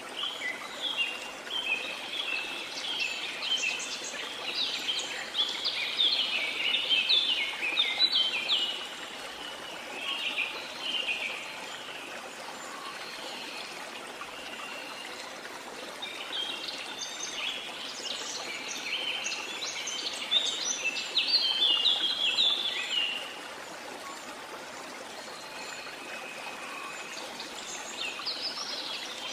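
Steady rush of a waterfall, with birds singing over it in quick chirping phrases: two long bouts, one near the start and one past the middle, and a few fainter calls near the end.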